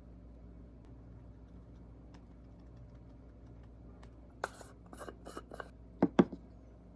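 Objects being handled over a faint steady hum: four short scraping or rustling strokes a little over four seconds in, then two quick knocks about six seconds in, the loudest sounds.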